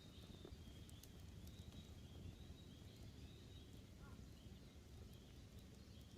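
Faint wood campfire with a few sharp crackles, and small birds giving a run of short high chirps over a low outdoor hush.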